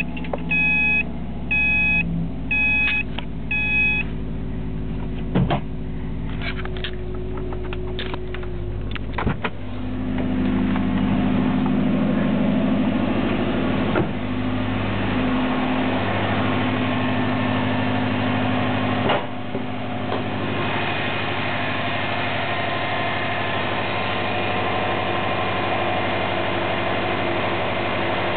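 2008 Subaru Impreza WRX STI's turbocharged flat-four boxer engine idling through its exhaust. A car's warning chime beeps repeatedly for the first four seconds, and the engine gets louder about ten seconds in, then runs steady.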